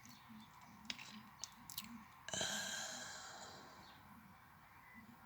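A long breathy exhale into the microphone, starting suddenly a little over two seconds in and fading away over about two seconds, with a few small clicks before it.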